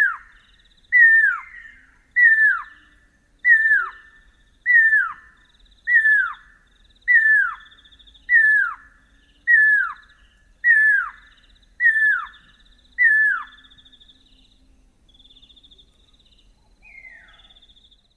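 A pair of pearl-spotted owlets duetting. One gives a steady series of clear downslurred whistles, about one every 1.2 seconds, which stop about three-quarters of the way through. The other answers with fainter, higher-pitched rapid piping phrases, the more distant female's part.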